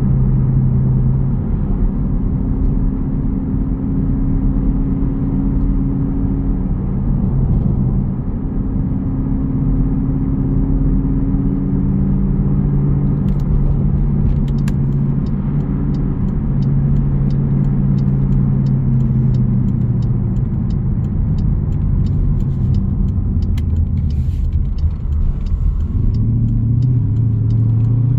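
Jeep Grand Cherokee's 5.7 Hemi V8 exhaust rumbling at a steady cruise, heard from inside the cabin. From about halfway there are faint quick clicks, and near the end the engine note dips briefly and then starts to climb as it pulls.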